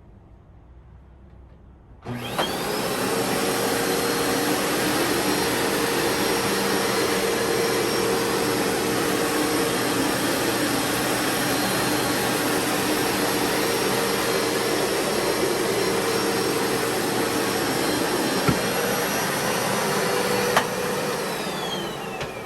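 Upright carpet cleaner switched on, its motor whining up to speed, then running steadily for most of the time before being shut off near the end and winding down with a falling whine.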